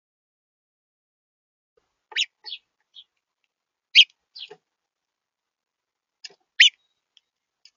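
Small bird at a feeder camera giving short, sharp chirps in three little clusters, with silence between them; the loudest notes come about four seconds in and near the end.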